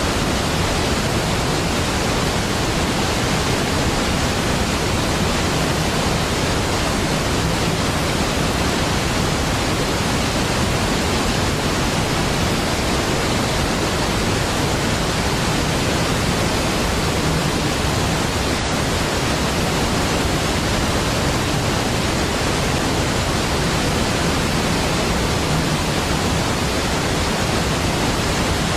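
Large waterfall: a steady, deep rushing of falling water that does not change.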